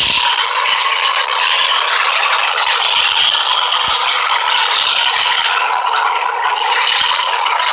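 New York City subway A train running through the station, a steady loud rattle and scrape of steel wheels on the rails.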